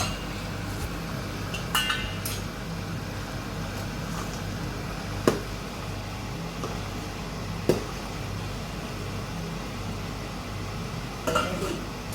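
A spoon or ladle clinking and knocking against a cooking pot a few times, at scattered moments, over a steady low hum.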